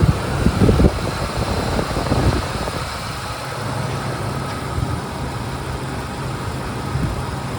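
Dodge 4.7-litre V8 engine idling steadily, with a few low thumps in the first couple of seconds.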